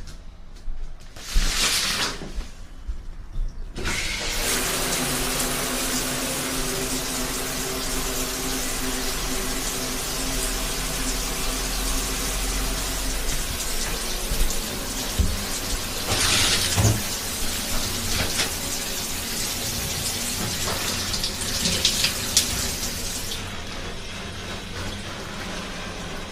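Water running steadily from a tap into a sink, turned on about four seconds in and shut off a few seconds before the end, with a few brief splashes along the way.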